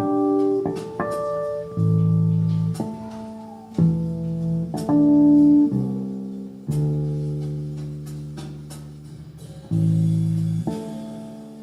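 Instrumental live music: guitar playing slow plucked chords and single notes that ring out and fade, with low bass notes underneath.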